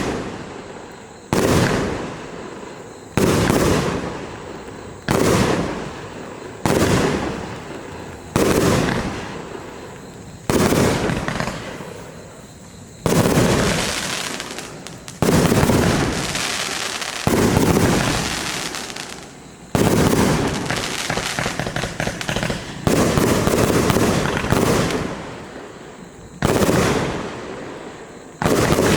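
Compound firework cake with 25 and 30 mm tubes firing: loud shell bursts about every two seconds, each dying away. After about 13 seconds the bursts grow denser and almost continuous.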